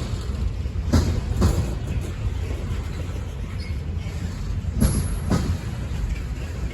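Norfolk Southern train's cars rolling past slowly with a steady low rumble, their wheels clicking over a rail joint in pairs about half a second apart, once about a second in and again about five seconds in.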